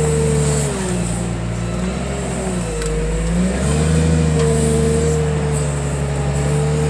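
Engine of the heavy machine loading a crushed car bundle, working under load, its pitch dipping and rising several times as it lifts a heavy bundle.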